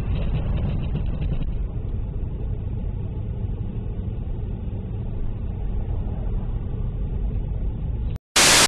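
A car driving, heard through a dashcam's microphone: a steady low rumble of engine and road noise. Near the end it cuts out, and a brief, loud burst of noise follows.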